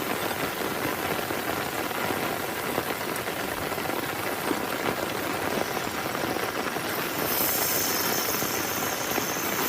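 Heavy rain falling on a tent: a dense, steady hiss. About seven seconds in, a sharper high hiss joins as the downpour picks up.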